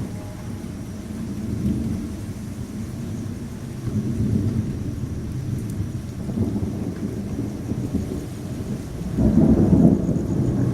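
Rolling thunder rumbling on and off through a strong thunderstorm, with steady rain underneath. The rumble swells about four seconds in and is loudest near the end.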